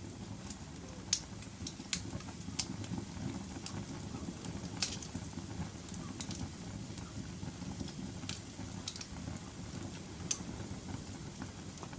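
Wood fire burning in a fireplace: a steady low rumble of flames with irregular sharp crackles and pops every second or so, the loudest about five seconds in.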